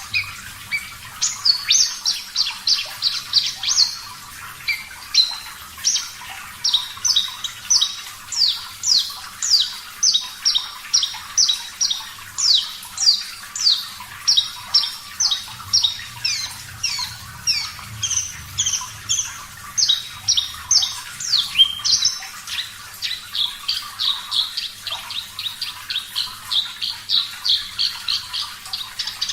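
Javan bush lark (branjangan) singing a long, unbroken run of short, sharp, high notes, about two to three a second and quickening near the end.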